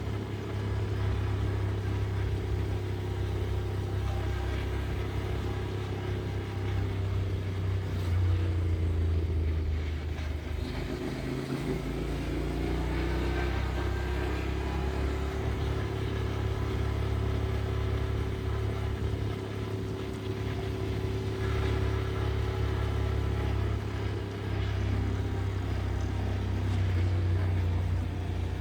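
Motorcycle engine running under way. Its pitch drops about ten seconds in, then rises again as it picks up speed, and holds fairly steady for the rest.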